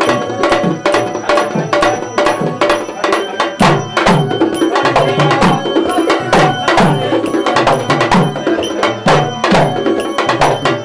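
Traditional Marathi tamasha music without singing: a hand drum beating a brisk rhythm, with low bass strokes that bend in pitch, sharp percussion strikes and steady held instrument tones.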